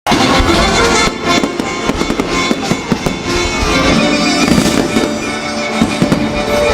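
Fireworks going off in rapid, dense crackles and bangs, with music playing throughout.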